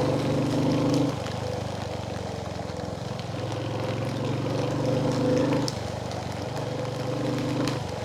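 Royal Enfield Hunter 350's single-cylinder engine running on the move, getting louder under throttle from the start to about a second in, again for a couple of seconds mid-way and briefly near the end, and easing off in between.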